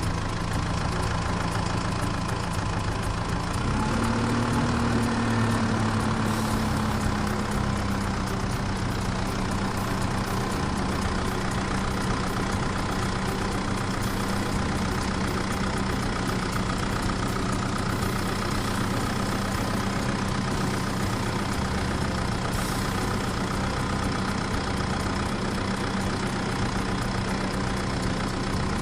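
Vehicle engine running steadily with a low, even hum; its pitch rises slightly about four seconds in and settles again a few seconds later.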